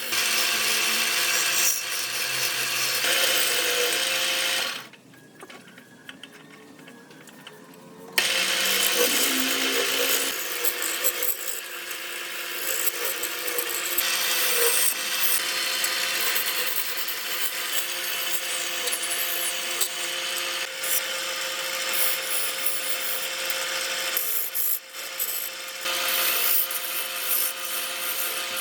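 Woodworking power tool running against wood, with a motor's steady tone under the cutting or sanding noise. It drops out about five seconds in and starts again about three seconds later.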